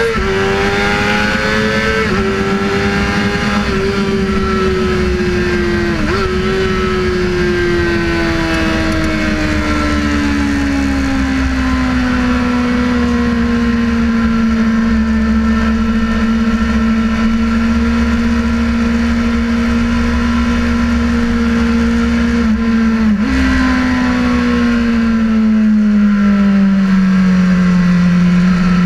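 Sportbike engine running at speed on a racetrack. Its note climbs and drops with quick gear changes in the first few seconds, then falls slowly and holds steady for a while, with a brief blip of revs about 23 seconds in before falling again.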